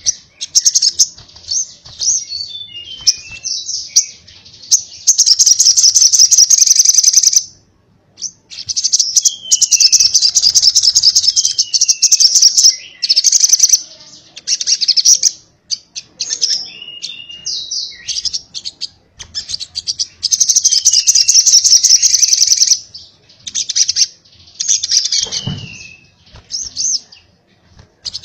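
Sogok ontong (crimson sunbird) singing in the 'konslet' style: long, very rapid high trills lasting two to three seconds each, broken up by short chirps and quick falling notes.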